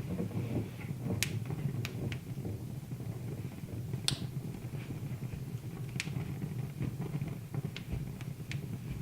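Wood fire in a fireplace crackling, with sharp single pops every second or two over a low steady rumble.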